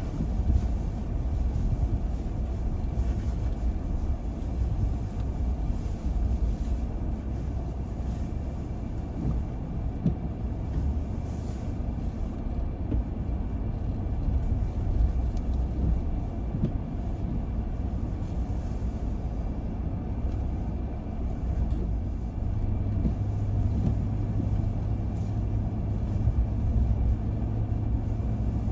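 A car driving, with a steady low rumble of road and engine noise. A low hum comes in about three-quarters of the way through.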